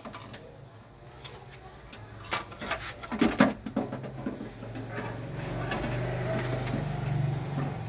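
Nissan Grand Livina driver's-door power window motor running with a steady hum over the last few seconds, after a few knocks and rattles from handling the door parts between about two and three and a half seconds in.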